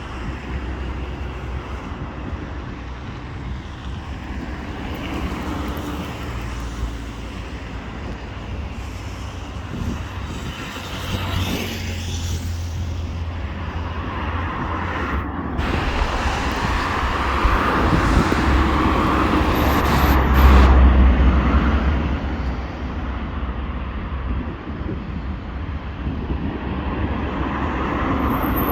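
Airbus A320 jet engines on landing approach: a broad rushing rumble that swells to its loudest about two-thirds of the way through, then fades away.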